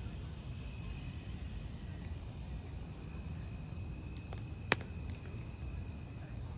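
Crickets chirping in a continuous high trill over the low, even sound of a burning wood campfire. One sharp pop from the fire comes about three-quarters of the way through.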